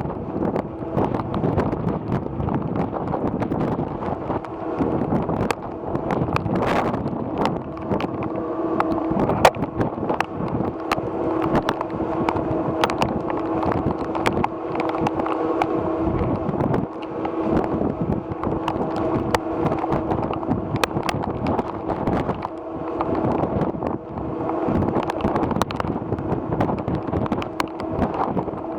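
Wind buffeting the microphone over the steady drone of a ferry's engines, with a held hum running underneath. Scattered sharp ticks come through throughout.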